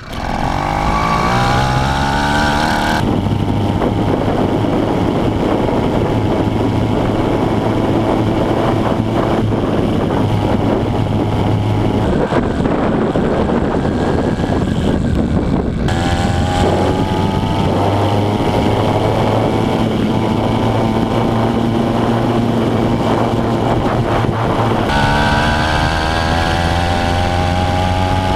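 Small engine of a motorized bicycle running under way, rising in pitch as it speeds up near the start, again just past halfway and near the end, with steady running in between.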